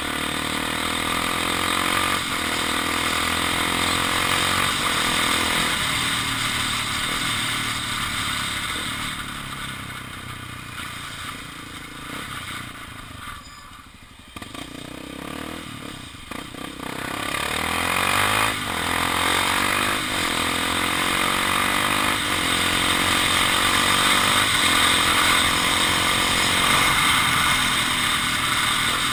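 Honda XR 250 Tornado's single-cylinder engine on the move, with wind rushing over the microphone; the revs climb and drop through gear changes. It eases off around the middle, falling almost to idle, then pulls away and builds up again.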